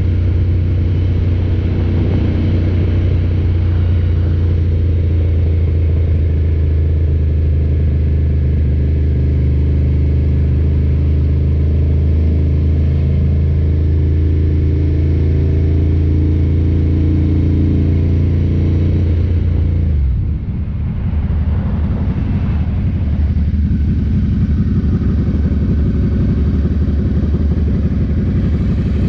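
Ducati motorcycle engine running at a steady cruise. About two-thirds of the way through, the note falls away as the throttle is rolled off, and the engine runs lower and rougher for several seconds. Near the end it climbs again as the bike accelerates.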